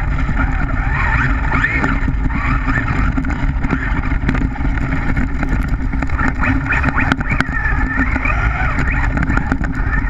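Traxxas rally RC car's electric motor whining, its pitch rising and falling as the throttle is worked, over a loud rumble and rush of the tyres churning through slush and snow, heard from a GoPro mounted on the car.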